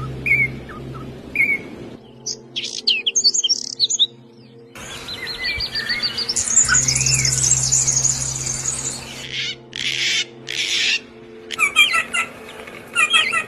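Small songbirds chirping and calling: short repeated chirps, a fast high-pitched trill in the middle, and a few harsh, scratchy bursts later on. The background changes abruptly several times, as in clips spliced together.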